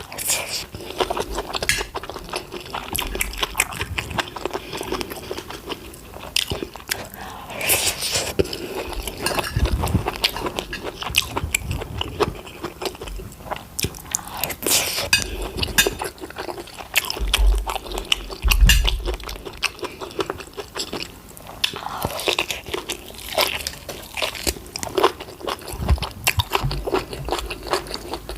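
Close-miked eating: a person biting and chewing food, with repeated crunchy bites and wet mouth clicks in an irregular stream.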